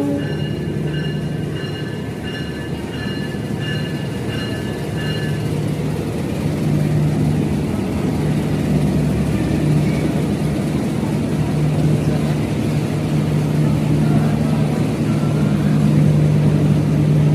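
Train approaching, its steady low engine hum and rumble slowly growing louder.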